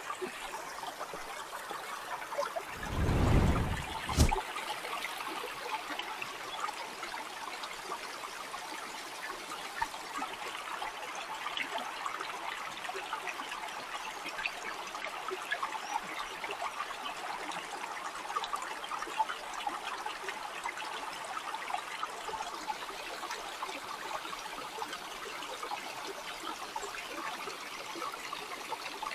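Water flowing in a small stream, a steady trickling and babbling. About three seconds in there is a brief low rumble.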